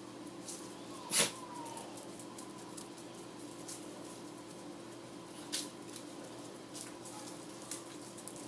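American Hairless Terriers playing: scattered sharp taps and clicks, the loudest about a second in, over a steady low hum.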